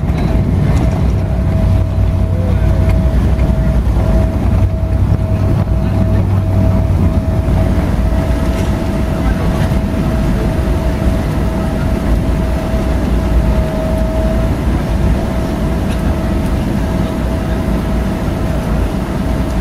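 Cabin noise inside a Boeing 777-300ER just after landing: a steady, loud rumble of engines and airflow with a thin steady tone over it. The rumble is heavier for about the first seven seconds, then eases.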